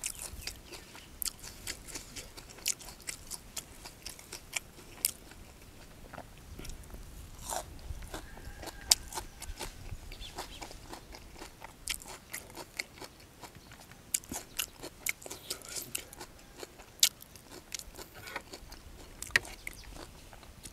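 Close-up chewing and crunching of a mouthful of fish laab with fresh raw leaves: irregular wet clicks and crackles from the mouth.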